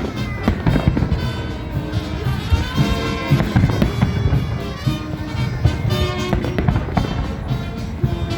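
Fireworks salute: many sharp bangs of fireworks bursts at irregular intervals, over loud music.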